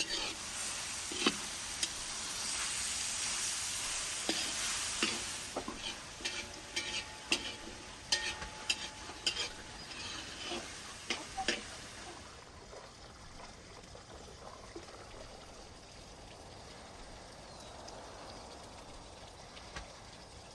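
Chopped tomatoes, mushrooms and garlic sizzling in a frying pan, with a utensil clicking and scraping against the pan as they are stirred. The sizzle is loudest for the first five seconds or so; the clicks stop about twelve seconds in, leaving a fainter steady hiss.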